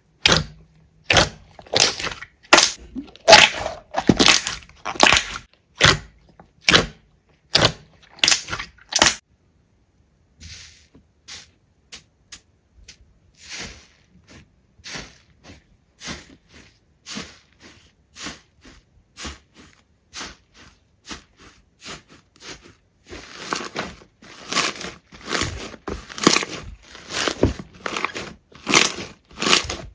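Slime being squeezed and poked by hand, giving a run of short crackling pops about one or two a second. They are loud for the first nine seconds, faint in the middle, and grow louder again about 23 seconds in.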